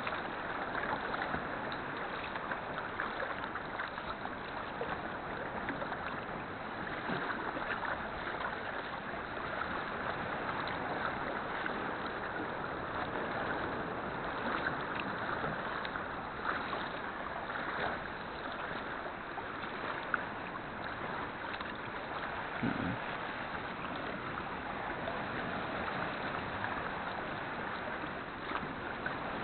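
Sea kayak being paddled: a steady wash of moving water, with small splashes and drips from the paddle blades scattered through it.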